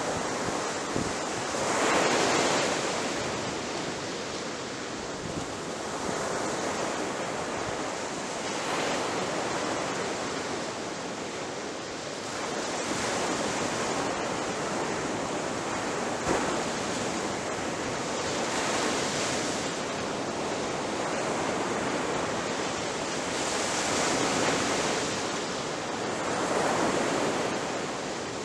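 Ocean waves breaking on the shore: a continuous rush of surf that swells every few seconds as each wave crashes, the loudest about two seconds in.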